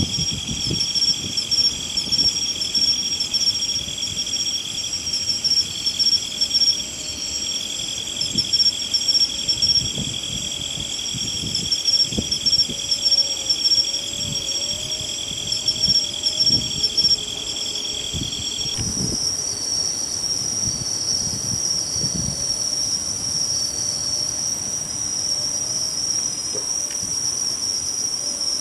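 Chorus of singing insects: several steady trilling songs at different pitches overlap. About two-thirds of the way through the mix changes abruptly, as one song drops out and a higher one comes in. Soft low thumps sound underneath.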